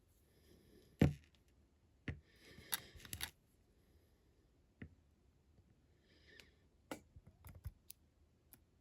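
Sharp clicks and light taps of small parts being handled while a rivet is pressed into the baseplate of a diecast model car, with a couple of short scraping rustles. The loudest click comes about a second in.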